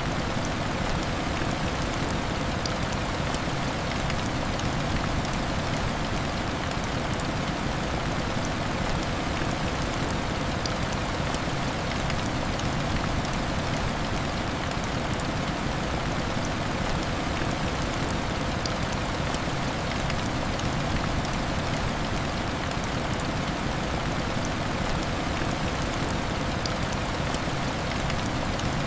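Heavy rain falling steadily, an even rushing wash sprinkled with fine pattering drops.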